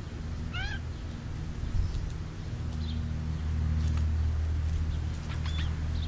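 A bird's short, nasal, rising mew-like call just under a second in, with fainter high chirps later, over a steady low rumble that swells in the middle.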